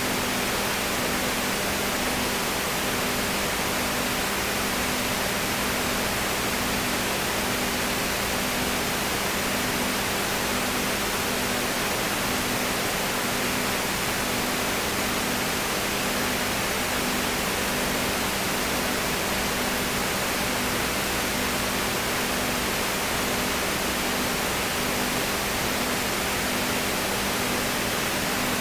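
Steady loud hiss with a low hum that pulses on and off in an even rhythm, about one and a half times a second.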